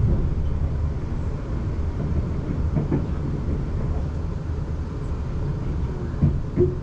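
South Western Railway passenger train running along the line, heard from inside the carriage: a steady low rumble of the wheels on the track.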